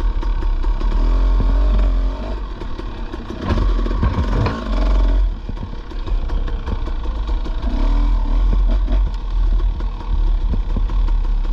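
Dirt bike engine running at trail speed, its revs rising and falling, with branches clattering and scraping against the bike and rider on an overgrown trail. Heavy low rumble from wind and motion on the microphone.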